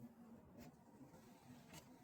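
Near silence: faint room tone with a low hum and two faint clicks.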